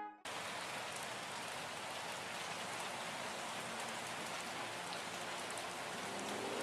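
Steady rain falling, an even hiss that starts suddenly just after the start. Soft music with held notes comes in near the end.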